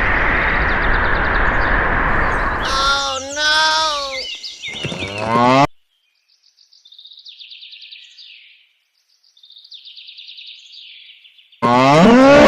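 Cow mooing: a gliding moo about three seconds in that cuts off abruptly, then, after a quiet stretch with faint high chirping, a louder rising moo that starts suddenly near the end. Before the first moo there is a steady rushing noise.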